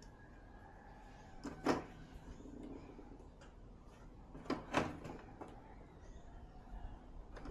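Short clattering knocks of parts and tools being handled during TV backlight repair: one just under two seconds in, then two in quick succession past the middle, over a quiet room hum.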